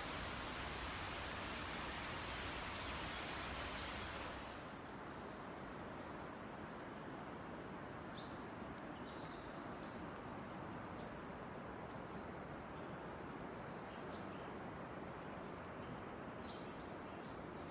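A songbird giving a short, high chirp about every two to three seconds, five times in all. Under it is a steady rushing noise, louder for the first four seconds or so and then quieter.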